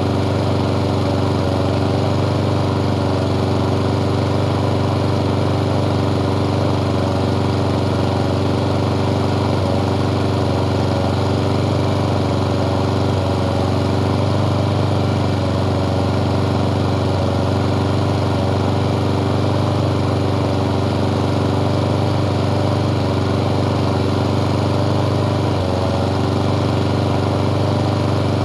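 Small lawn mower engine running steadily at a constant speed, with one brief dip near the end.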